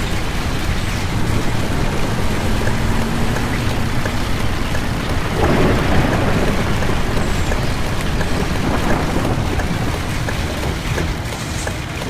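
Heavy rain on a moving school bus over the low rumble of the bus driving, with a louder swell of noise about halfway through.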